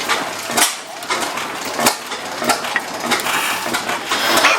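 Hit-or-miss stationary engine running, with a sharp pop of its exhaust on each firing stroke at uneven intervals, about one a second, over a steady mechanical clatter as it coasts between firings.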